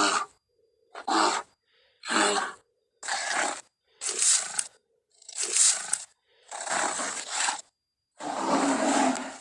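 Cave bear sound effect: a string of about eight short animal roars, each under a second and cut apart by dead silence, the last one longer.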